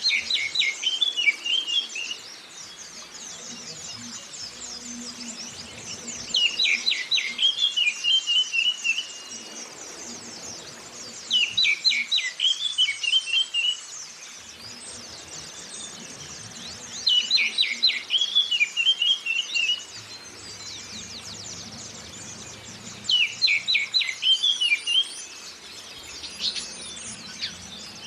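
Recorded oriental magpie-robin song: a loud phrase of sharp falling notes ending in a short warble, repeated about every five and a half seconds. Underneath runs a steady high twittering of white-eyes.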